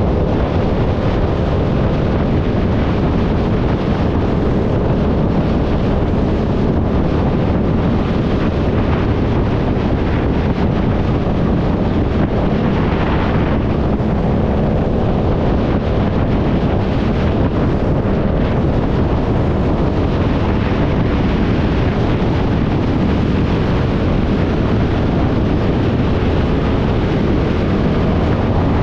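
Loud wind buffeting the microphone on a moving motorcycle, with the engine's steady drone underneath.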